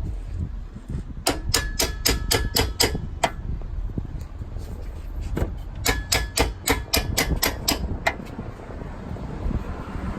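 Two runs of quick metallic taps, about four or five a second and each lasting about two seconds, with a faint ringing tone under them: a hand tool worked on steel suspension parts while the car's rear suspension is reassembled.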